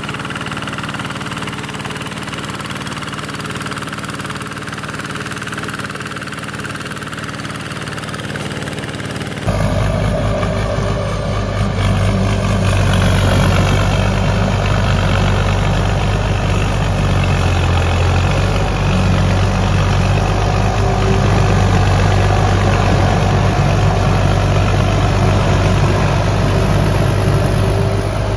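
Walking tractor diesel engine running steadily. About nine and a half seconds in, the sound cuts abruptly to a louder, lower-pitched engine running steadily.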